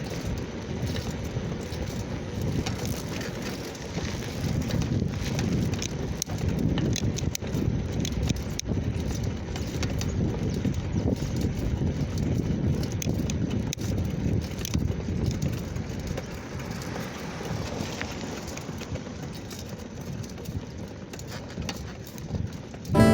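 Bicycle ridden over a rough dirt road: steady tyre crunch with frequent small rattles and knocks.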